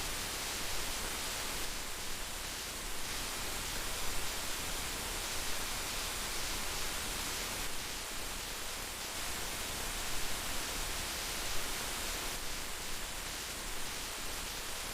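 Heavy rain falling steadily, a dense even hiss with occasional slightly louder drops or gusts.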